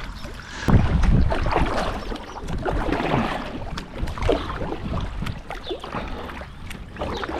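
Kayak paddle strokes dipping into calm canal water, a soft splash and trickle roughly once a second, with some wind rumble on the microphone about a second in.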